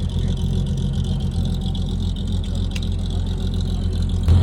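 A car engine idling steadily with a low hum, turning abruptly louder near the end.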